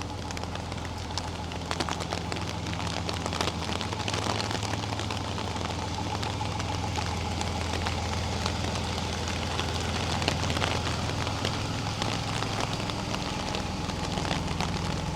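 Rain falling on hard surfaces: a steady hiss with many sharp drop clicks, over a steady low hum.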